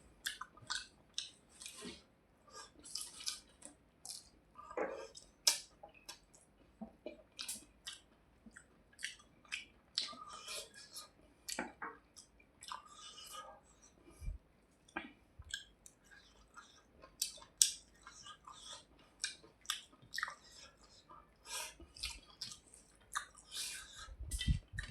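Close-up chewing of soft, wet food (rice with hilsa fish), with many short, irregular wet mouth smacks and clicks.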